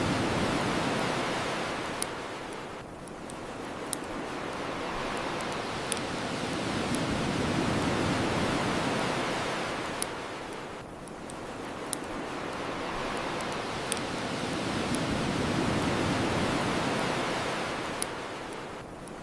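Ocean waves washing onto a shore, swelling and ebbing about every eight seconds, with single sharp pops from a crackling bonfire about every two seconds.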